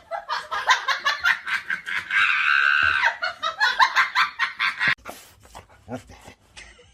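A person laughing hard in a quick run of short bursts, with a held high note in the middle. The laughter stops about five seconds in.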